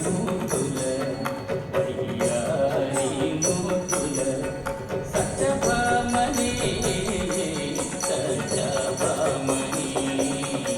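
Kuchipudi dance music: an Indian classical ensemble with rhythmic percussion and jingling bells over sustained melodic instrument tones.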